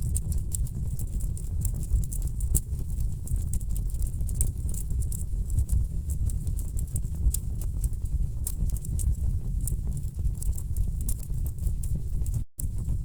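Wood fire burning in a fireplace: a steady low rumble of flame with frequent sharp crackles and pops from the logs. The sound drops out for an instant near the end.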